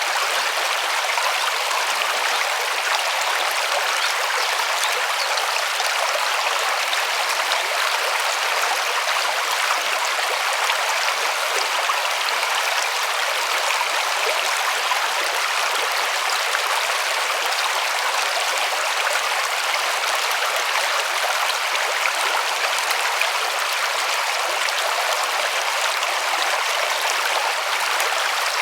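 A river rushing and splashing over stones: a steady, even rush of flowing water with no lulls.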